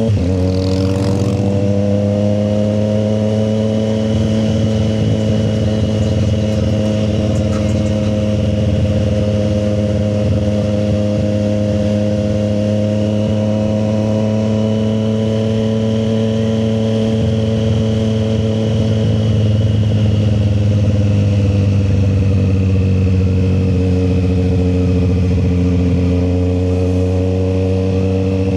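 Triumph Street Triple 765 RS motorcycle's inline three-cylinder engine running at a steady cruise. Its pitch rises and falls only gently.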